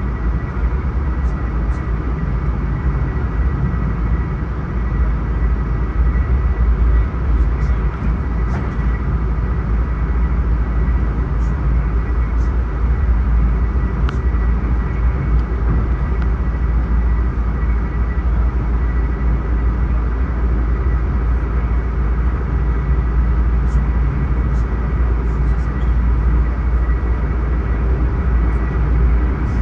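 A passenger train running at speed, heard from inside a Bombardier LRC coach: a steady low rumble with a thin, steady whine over it and scattered faint clicks.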